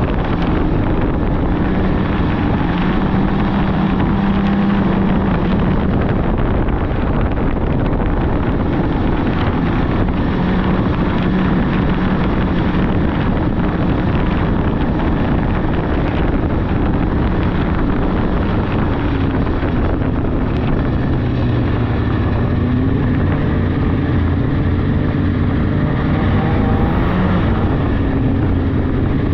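Polaris 600cc snowmobile engine running under way on a trail, its pitch shifting up and down with the throttle, with wind rushing over the microphone.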